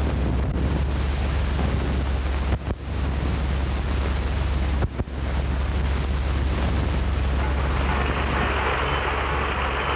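A steady, loud rushing noise over a low hum, cutting out briefly twice.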